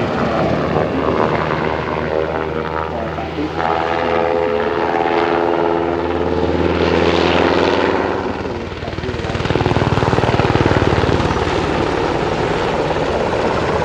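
Aircraft flying past at an airshow: its engine tone slides down in pitch partway through as it passes, followed by a broad rumble.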